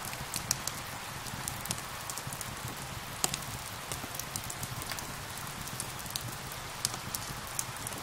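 Steady rain with a fireplace fire crackling, giving many scattered sharp pops and snaps over the rain's even hiss.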